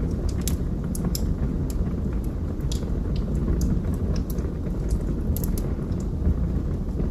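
Wood fire burning in a fireplace: a steady low rumble of the flames with scattered sharp crackles and pops from the burning logs, several every second and a small cluster about five seconds in.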